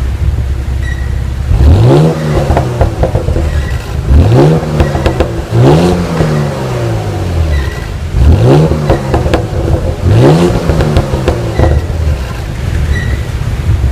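2015 Porsche Cayenne S twin-turbo V6 being revved, its exhaust rising and falling in five quick blips over a steady idle.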